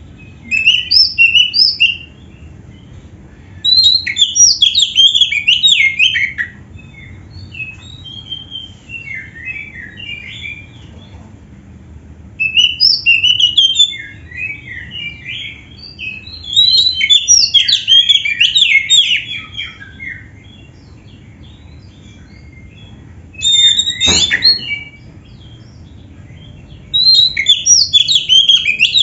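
Oriental magpie-robin (kacer) singing in loud bursts of rapid, high warbling phrases, its song filled with canary imitations. The phrases come about six times, separated by short pauses, over a steady low hum. Near the end a sharp knock opens one phrase.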